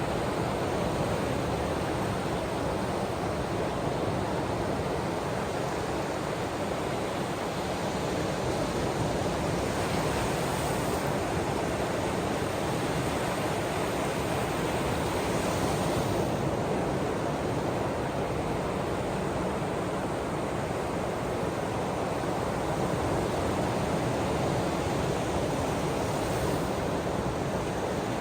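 Ocean waves washing on the shore: a steady rushing noise that swells faintly now and then.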